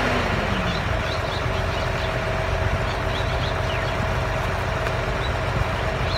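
Hydraulic excavator's diesel engine running steadily, a constant drone with a low rumble, with a few faint high chirps over it.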